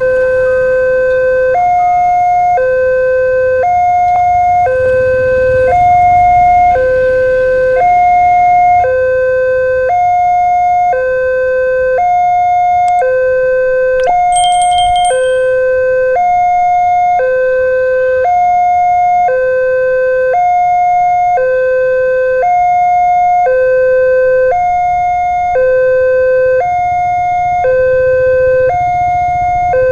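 Railway level-crossing warning alarm sounding its two-tone signal, a lower and a higher tone alternating about once a second without a break, warning that a train is approaching. A brief high-pitched tone cuts in about halfway through.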